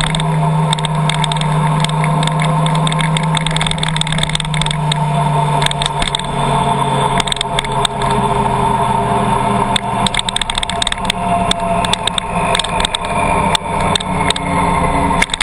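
Car driving, its engine and road noise heard steadily, with the engine tone dropping slightly about five seconds in; many sharp ticks are scattered through it.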